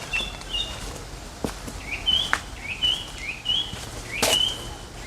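A small bird calling in a repeated series of short chirps, each sliding up and then holding a level note, about one or two a second. A few sharp taps sound among them, the loudest about four seconds in.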